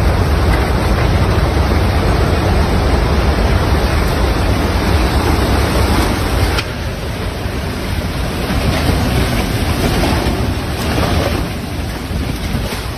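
Strong tornado wind blowing hard across the microphone, a dense rushing noise with a heavy low rumble. It eases slightly about halfway through.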